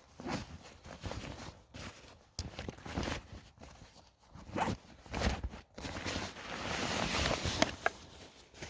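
Irregular rustling and scuffing handling noises, with a longer rasping stretch near the end.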